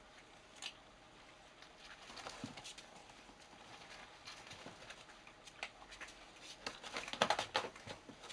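Two cats playing: scattered taps and thumps of paws and bodies on the floor, with a quick flurry of taps about seven seconds in.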